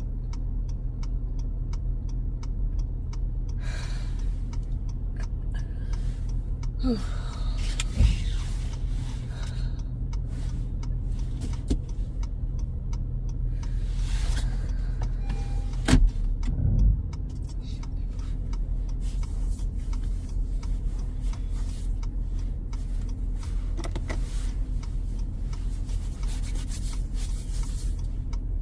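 A car's steady low rumble heard from inside the cabin, with faint regular ticking and a few thumps near the middle.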